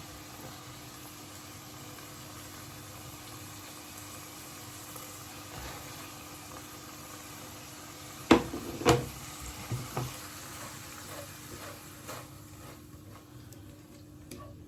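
Chicken pad thai noodles frying in a non-stick pan with a steady sizzle. About eight seconds in, a utensil clatters twice loudly against the pan, followed by a few lighter knocks, and the sizzle dies down near the end.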